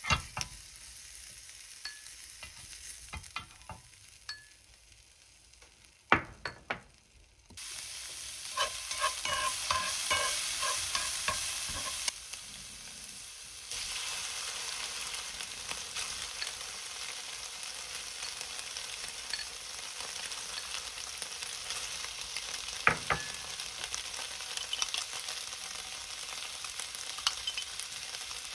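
Udon noodles and shredded cabbage sizzling in a frying pan, with the scrapes and clicks of a utensil stirring them. The sizzling starts about a quarter of the way in; before it, metal tongs click against a pan and a few sharp knocks sound, and there is one more sharp knock a little past the middle.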